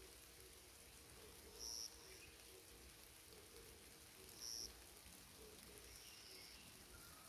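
A bird repeating a short, high, thin note roughly every three seconds, twice clearly and once more faintly, over a faint steady hiss of forest ambience.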